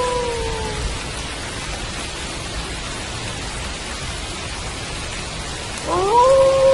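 Steady rain falling, with a wolf howling over it. A howl trails off, dropping in pitch, in the first second; a new howl starts about six seconds in, rising steeply and then held level.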